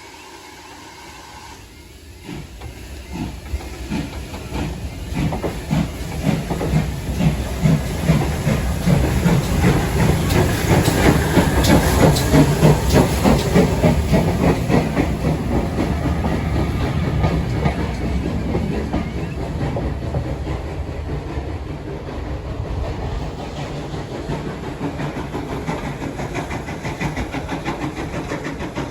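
Steam locomotive No. 1450, a GWR 1400-class 0-4-2 tank engine, running past with steam hissing and wheels clicking over the rail joints. It grows louder over the first ten seconds, is loudest around the middle, then slowly fades as it draws away.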